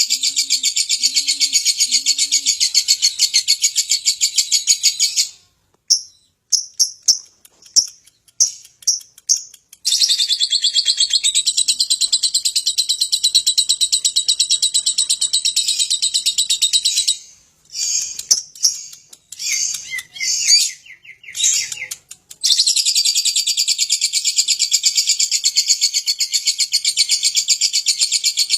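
Lovebird singing a long, rapid, high-pitched trilling chatter that runs unbroken for several seconds at a time. Twice it breaks off into shorter bursts of separate chirps before the continuous trill resumes.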